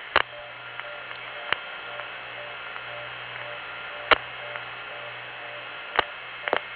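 Open analog telephone line after an intercept recording, heard off an old phone tape: steady hiss and low hum, with about five sharp clicks.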